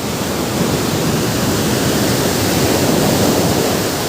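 Ocean surf on a beach: the rush of a wave swells to a peak about three seconds in, then begins to ease off.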